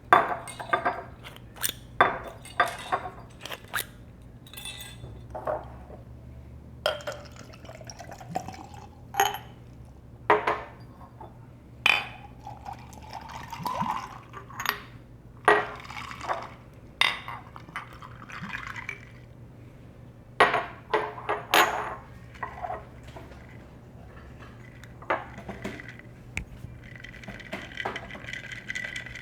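A drink being poured into a glass of ice cubes, with repeated sharp clinks of ice against glass. Twice the pouring rises in pitch as the glass fills.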